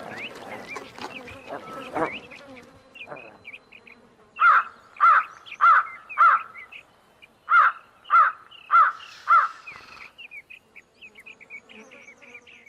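Insects buzzing and chirping, then a crow cawing in two runs of four evenly spaced caws, with small birds chirping faintly near the end: a night-into-morning woodland soundscape.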